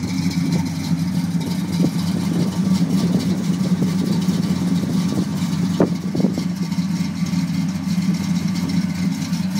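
1967 Pontiac Beaumont's engine idling steadily, with one short click about six seconds in.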